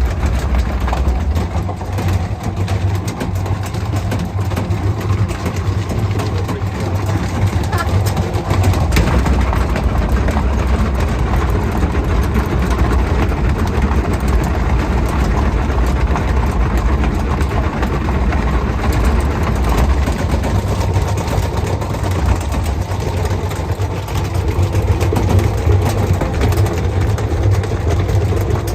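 A machine running with a steady, loud low rumble that does not let up.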